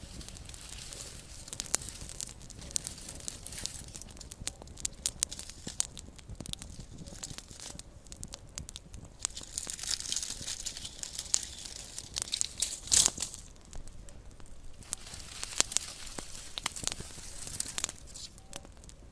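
Small campfire crackling and popping: a steady run of sharp snaps, with thicker bursts of hissy crackling about halfway through and again near the end.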